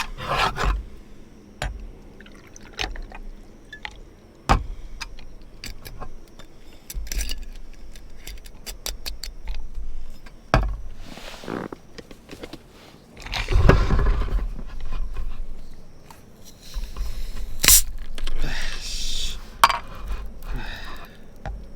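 Irregular clinks, knocks and scrapes of camp cookware and utensils being handled, with a few longer scraping or rustling stretches, the loudest about two-thirds of the way in. Gusts of wind buffet the microphone now and then.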